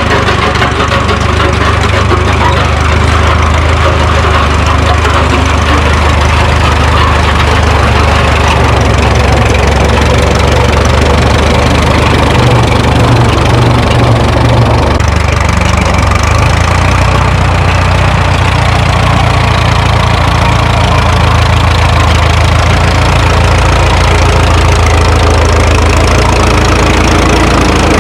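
Minneapolis Moline tractor engine running steadily and loudly, its sound changing about halfway through.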